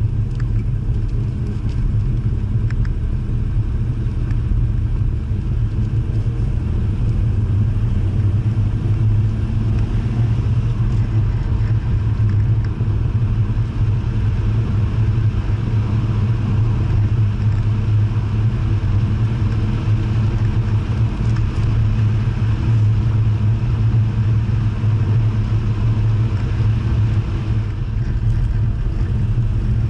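Jaguar E-type engine running at a steady cruise through winding bends, heard from inside the cabin as a continuous deep drone mixed with road noise.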